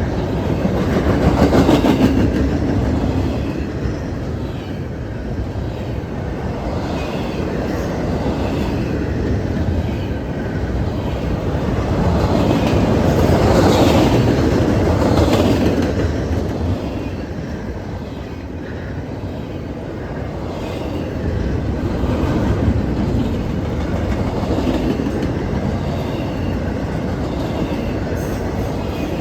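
Freight train cars rolling past, steel wheels clacking over the rail joints over a continuous rumble. The noise swells twice as cars pass.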